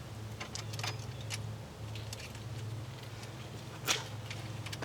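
Faint scattered clicks and light taps over a low steady hum, with one sharper click about four seconds in.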